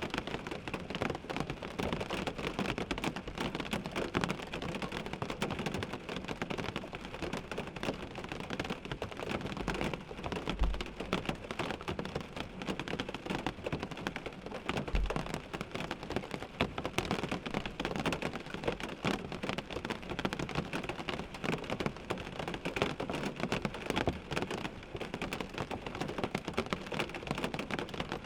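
Rain falling on a car windshield, heard from inside the car: a dense, steady patter of drops on the glass. Two brief low thumps come about ten and fifteen seconds in.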